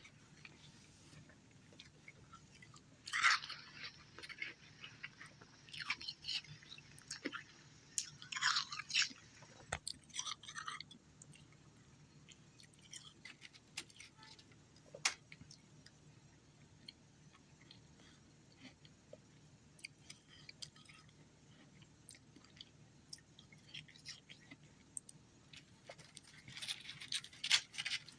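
Ice being chewed: irregular crunches in clusters, loudest about three seconds in and again around eight to nine seconds, with sparse faint crackling in between and a dense run of crunching near the end.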